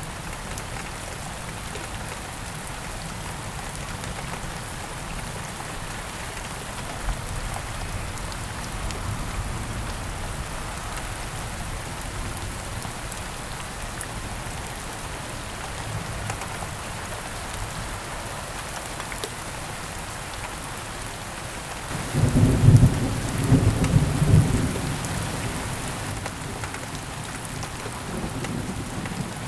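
Steady heavy rain falling, with a loud clap of thunder rolling about three-quarters of the way through and fading over a few seconds.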